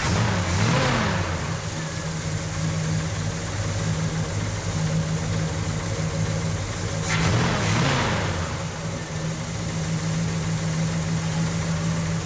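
1969 Chevrolet Chevelle SS's rebuilt engine idling steadily, revved twice: a quick rise and fall in pitch just after the start and again about seven seconds in.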